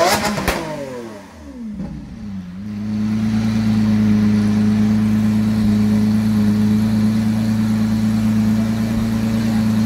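Lamborghini Aventador's V12 engine: the revs fall away after a blip during the first couple of seconds, then it settles into a steady idle.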